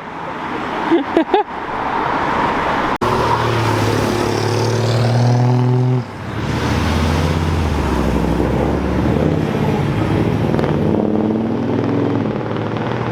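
Car engine under hard acceleration, its revs climbing, breaking off for a gear change about six seconds in, then pulling up again and holding high. A sharp click about three seconds in.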